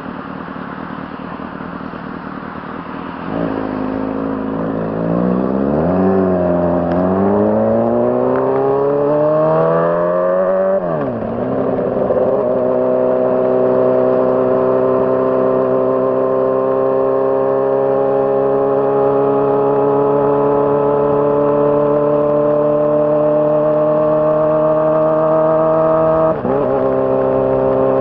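2006 Honda CBR600RR's inline-four engine pulling up through the revs while riding, with a gear change about eleven seconds in. It then holds a steady, slowly rising note, with another quick shift near the end.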